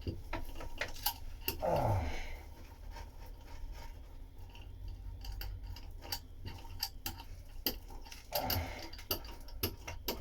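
Irregular light clicks and taps, several a second, from hand work on fiberglass.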